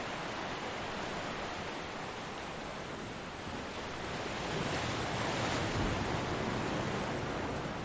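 Ocean waves breaking on a beach, a steady wash of surf with one wave swelling louder about halfway through and easing off near the end.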